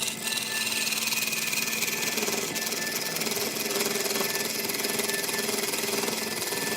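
A power tool working wood makes a steady, high-pitched rattling hiss that starts and cuts off abruptly.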